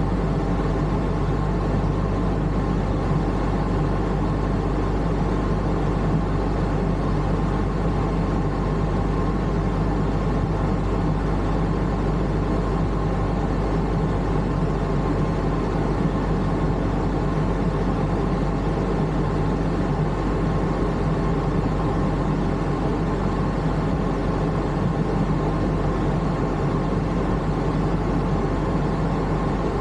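1990 Honda NSX NA1's 3.0-litre V6 engine running at a steady idle through a titanium muffler, heard from inside the cabin; an even, unchanging hum with no revving.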